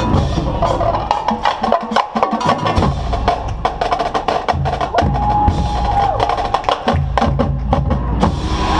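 Marching band playing, with its drumline to the fore: fast snare and tenor drum strokes over low bass drum notes, under held horn tones.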